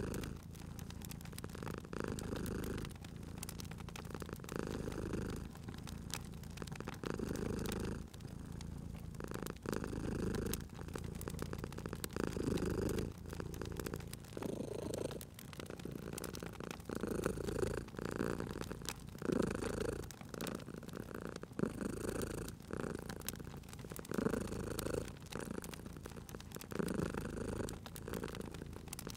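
Domestic cat purring steadily, swelling and fading with each breath about every two seconds, over the scattered pops and crackles of a wood fire.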